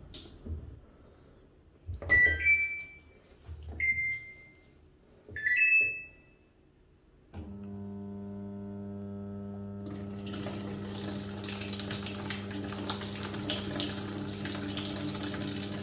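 A washing machine's control panel beeps three times as buttons are pressed. About seven seconds in, a steady electric hum starts. A few seconds later water rushes in through the inlet as the machine begins to fill, which the owner finds slow.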